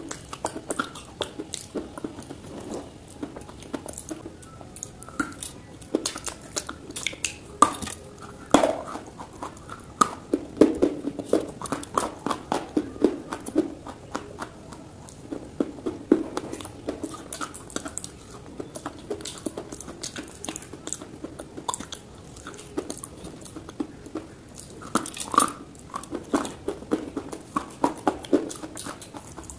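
A person biting and chewing dry, crumbly multani mitti clay: a continuous run of crisp crunches and crackles at an uneven pace, with the louder bites coming in clusters.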